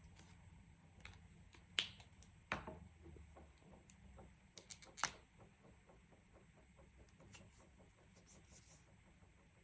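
Coloring supplies being handled at a desk: a few sharp clicks and taps, the loudest about two and five seconds in. Behind them are faint quick scratchy strokes and a low hum.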